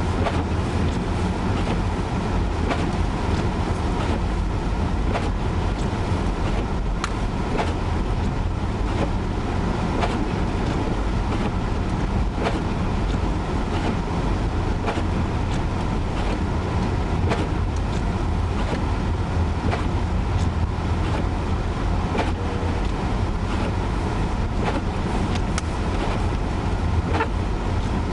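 Steady low rumble of a car's engine and tyres on snowy streets, heard from inside the cabin, with scattered light clicks throughout.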